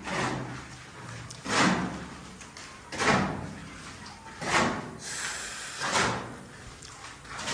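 Scraping strokes of a trowel working wet cement render onto a wall, one about every second and a half, each a short gritty swipe.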